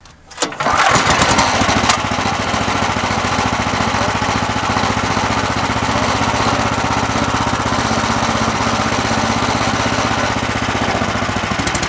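A small gasoline mud motor engine running, a little louder for the first second or two, then settling into a steady run.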